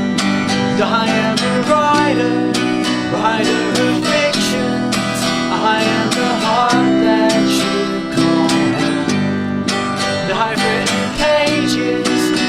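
An acoustic band playing an instrumental passage: steadily strummed acoustic guitar with a melody line over it, mandolin and bass.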